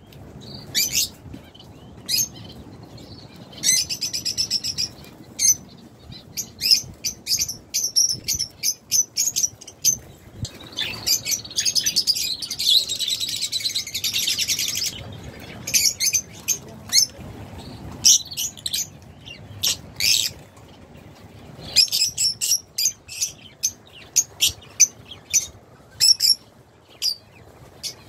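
Many caged pet birds chirping: short, shrill chirps come in quick clusters throughout. A denser, continuous twittering runs from about eleven to fifteen seconds in.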